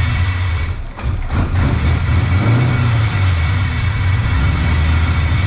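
LS V8 engine in a BMW E46 running at idle through its exhaust, a steady low note with a brief dip about a second in.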